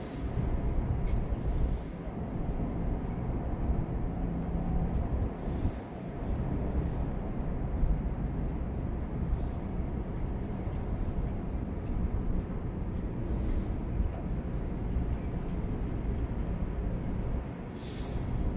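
Low, steady rumble of an MTR M-Train electric multiple unit moving slowly through depot sidings.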